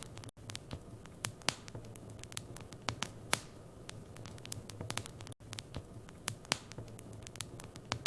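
Wood fire crackling in a fireplace: irregular sharp snaps and pops over a low steady hum.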